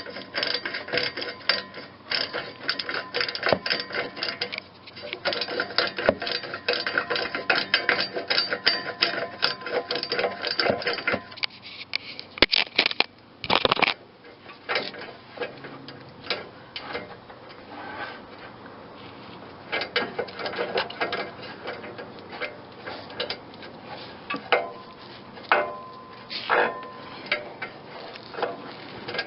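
Ratchet wrench clicking rapidly as a rusted exhaust bolt is worked loose, then slower, sparser clicks from about eleven seconds in.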